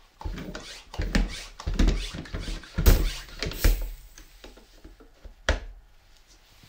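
Handling noises: a run of irregular knocks and scrapes, then a single sharp click about five and a half seconds in.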